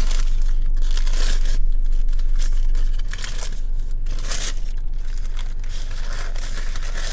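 Paper sandwich wrapper being unwrapped from a Subway sub, crinkling and tearing in a run of short rustles.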